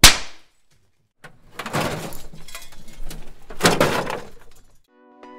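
Sound effects for an animated logo intro: one sharp hit that dies away quickly, a pause, then a few seconds of noisy crackling and crashing that swells once before fading. Plucked-string music begins near the end.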